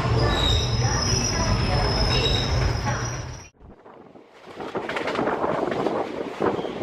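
Passenger train running, heard from aboard: deep rumble from the wheels with steady high-pitched wheel squeal over it. The sound cuts off abruptly about halfway through, then after a moment of near silence comes back as rolling train noise with wind buffeting the microphone.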